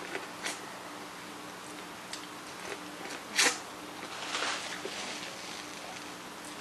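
Close mouth sounds of eating corn on the cob: biting and chewing the kernels, with small wet clicks and one louder, sharp bite about three and a half seconds in.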